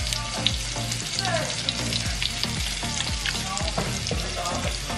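Salmon frying in a pan: a steady sizzle with frequent small pops, with a wooden spoon stirring couscous in a saucepan.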